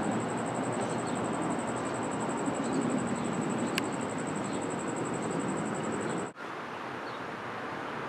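Steady outdoor background noise with a high, evenly pulsing buzz over it and a few faint chirps. The sound drops out for a moment about six seconds in, and the buzz stops there.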